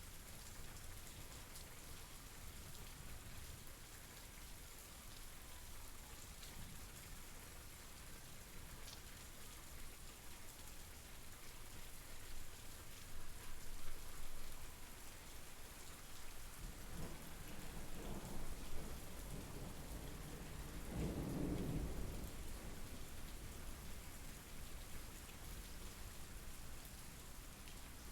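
Steady rain falling, with a low roll of thunder rumbling in two swells a little past the middle.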